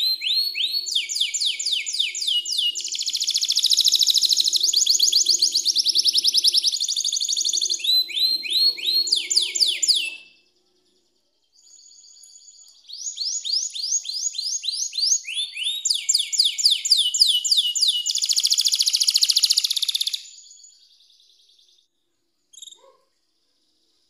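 Domestic canary singing as a song lure: long phrases of fast repeated high chirps and rolling trills. The song breaks off about ten seconds in, starts again a second or so later, and stops shortly before the end, with one short note after.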